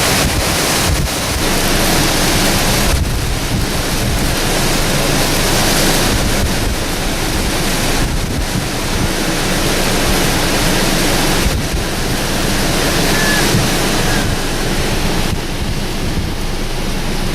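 Tropical-storm wind blowing hard across the microphone, a loud steady rush whose strength shifts every few seconds, with gusts the speaker puts in the 50s mph.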